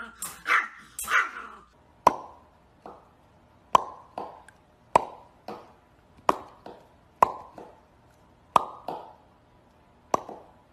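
A small dog barks three quick times from inside a wire crate. Then comes a run of short, sharp plops, about one a second, each with a brief ring, some of them doubled.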